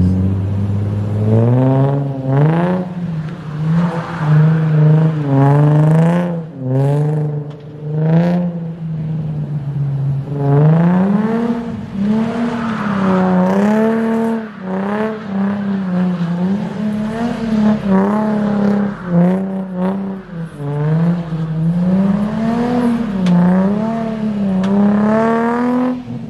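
Nissan VQ-series V6 engine revved hard again and again, its pitch climbing and dropping every second or two as the car is thrown into donuts and slides on a wet road. A few sharp bursts of noise cut in during the first eight seconds.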